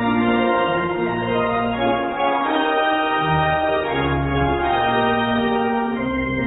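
Organ playing slow sustained chords over low bass notes that change about once a second.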